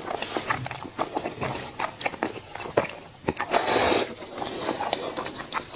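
Close-miked eating sounds: crunchy bites and chewing in quick, sharp clicks, with one louder, noisier crunch about three and a half seconds in.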